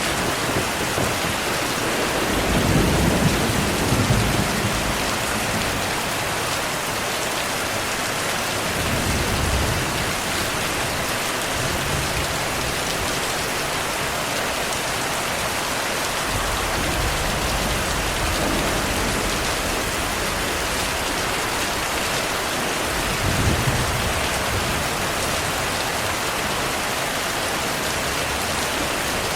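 Heavy, steady rain with thunder rumbling low beneath it several times, the loudest rolls about two to four seconds in and again near twenty-three seconds.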